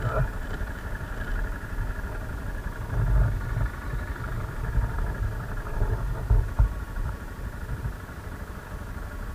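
BMW motorcycle engine running at low speed, an uneven low rumble throughout.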